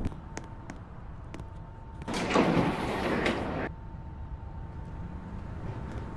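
New York subway train standing at the platform: a few sharp clicks, then about two seconds in a loud hiss of released air lasting about a second and a half before cutting off.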